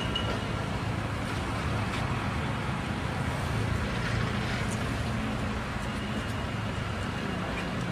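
Steady motor vehicle driving noise: a low, continuous engine hum with road and traffic noise.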